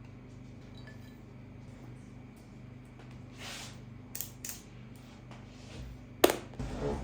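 Light clinks of dishes and cutlery over a steady low hum: a soft swish, two small clinks, then one sharp knock near the end.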